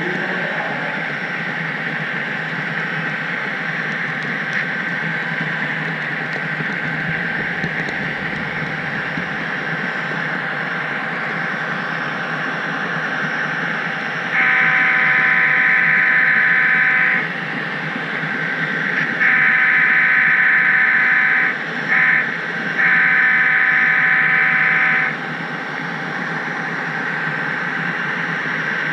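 HO scale model train running with a steady whir. About halfway through, a sound-equipped model diesel locomotive blows its horn in the grade-crossing pattern: long, long, short, long.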